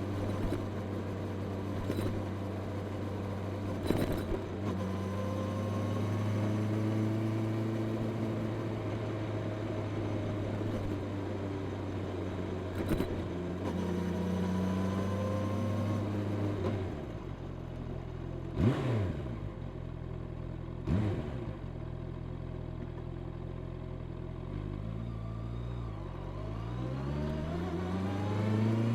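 Honda CB650R's inline-four engine with its stock exhaust, running at a steady cruising note. Past the middle the revs drop off and two short, loud sweeps in pitch come a couple of seconds apart. Near the end the engine pulls hard with rising revs.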